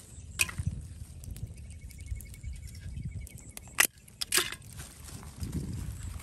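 Live crabs handled over a clay pot: sharp clicks and knocks of shell and crinkling of a plastic bag over a low uneven rumble. A faint high trill runs through the middle.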